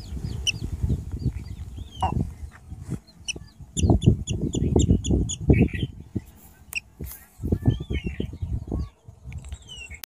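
A bird calling in short, high-pitched chirps, about five a second for a couple of seconds near the middle, with a few scattered calls elsewhere. Low rumbling and thumping noise runs underneath and is louder than the calls.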